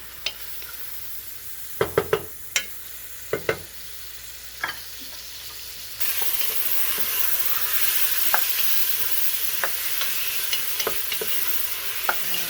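Chicken pieces sizzling in oil with garlic and onions in a pot, with a few sharp knocks and scrapes of a utensil against the pot as it is stirred. The sizzle gets suddenly louder about halfway through.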